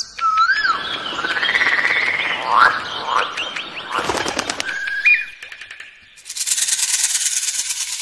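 A string of different bird calls: a whistled glide, then rough warbling and quick rising chirps, and a short steady whistle about five seconds in. About six seconds in, a dense, high-pitched buzzing with rapid pulses takes over.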